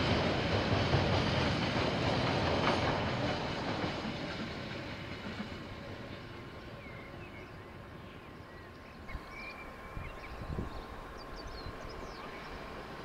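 KiwiRail train rolling past on the rails, its rumble loud for the first few seconds and then dying away over the next few as it goes. A few short high chirps come through the quieter tail.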